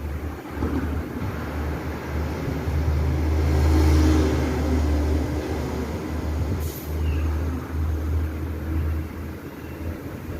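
Battery-operated Tomica GT-R R32 toy car running, a low steady hum that swells about four seconds in and eases off, with a short click near seven seconds.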